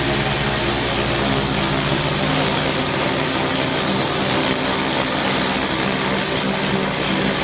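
A pressure washer's engine running steadily under load, with the hiss of high-pressure water spraying on paving.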